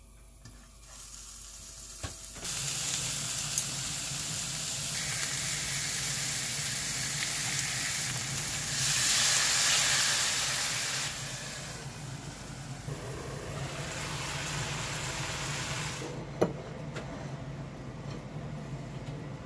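Food sizzling in a hot frying pan: a hiss that starts suddenly a couple of seconds in, swells briefly near the middle and dies down near the end, over a steady low hum.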